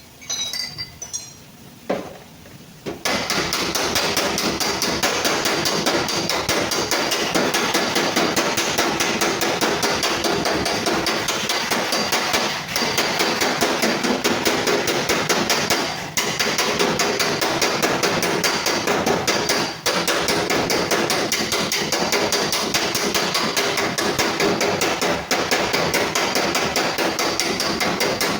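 Hammer rapidly and steadily striking the sheet metal of a car's fender panel during body repair. A few separate knocks come first, then continuous fast hammering from about three seconds in, broken by a few brief pauses.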